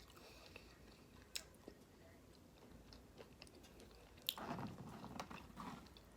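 Quiet chewing and biting, with a few sharp mouth clicks and a louder stretch of chewing about four and a half seconds in.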